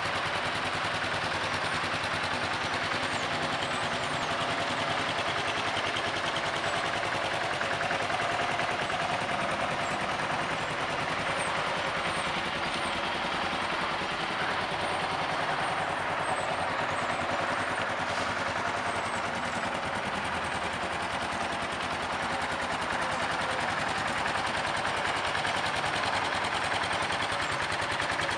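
Kawasaki KLR650's single-cylinder four-stroke engine idling steadily, a fast even pulse of exhaust beats.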